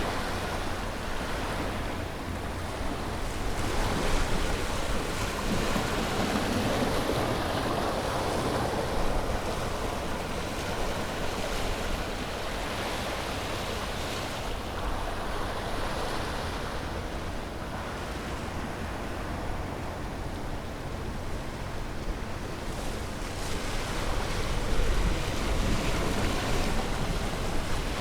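Ocean waves breaking and washing on a beach, a continuous surf with slow swells as each wave comes in, and a low wind rumble on the microphone.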